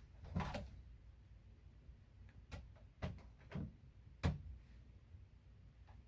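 A handful of dull knocks and thumps at uneven intervals, the loudest about four seconds in, over a low room hum.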